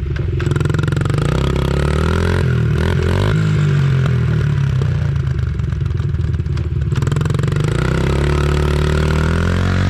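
Dirt bike engine running under way, its pitch rising and falling with the throttle and climbing again near the end.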